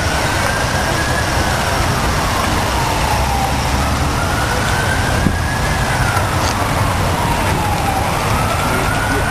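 Emergency vehicle siren wailing, its pitch climbing slowly and then falling in a cycle of about four seconds, over a steady low rumble of traffic.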